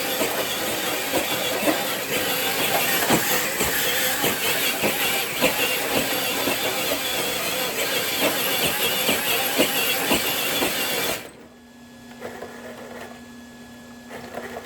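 RC truck running over rough ground, a steady noisy rush full of small crackles, which cuts off suddenly about eleven seconds in, leaving only a faint steady hum.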